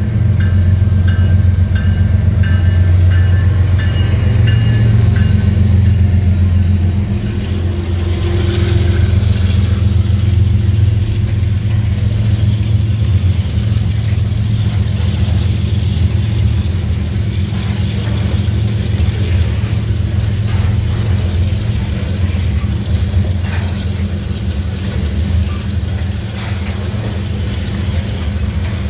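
Canadian National freight train passing close by: a strong diesel locomotive engine drone for the first seven seconds or so, then covered hopper cars rolling past with a steady rumble and scattered clacks of wheels on the rails.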